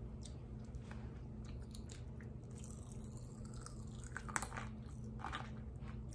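Close-up chewing and mouth sounds of candy eaten from a spoon, with scattered small clicks and crackles, the sharpest a little past four seconds in and again about a second later, over a faint steady hum.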